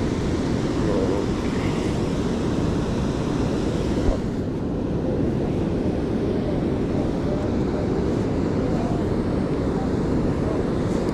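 Steady rushing noise of water pouring over a river spillway in heavy rain, deep and unbroken, with one short knock about four seconds in.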